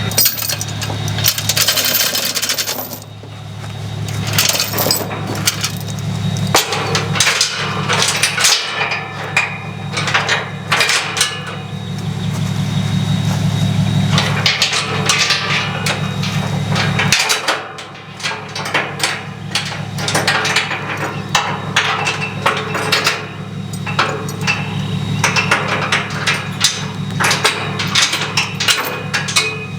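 Steel tie-down chains and binders clanking and knocking against metal as a tractor is chained down on a trailer, with a steady engine hum underneath.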